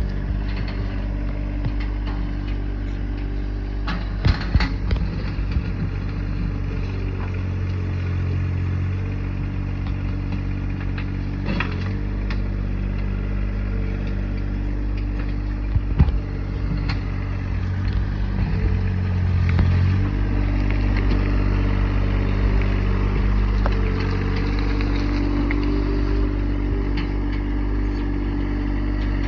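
Tractor engine running steadily, its pitch shifting a couple of times as the load changes, with a few sharp clanks from the digging, the loudest about sixteen seconds in.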